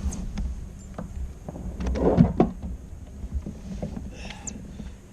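Knocks, clicks and rattles of gear and a freshly landed fish being handled in a fishing kayak, with a louder scuffle about two seconds in, over a steady low rumble.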